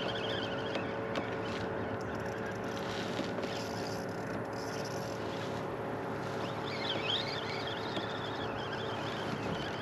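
Steady hum of a kayak's electric trolling motor over a haze of wind and water noise, with a bird calling about seven seconds in.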